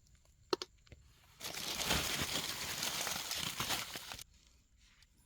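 Dry debris being rummaged and pulled apart by hand, crackling and crinkling for about three seconds after a couple of light clicks.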